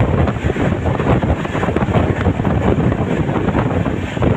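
Wind rushing over the microphone at an open train window, over the steady rumble of a passenger coach's wheels on the rails as the express runs at full speed.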